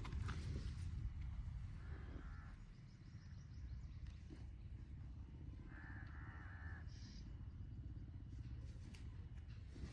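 A bird calling twice, short harsh calls about two seconds in and again around six seconds, over a steady low rumble.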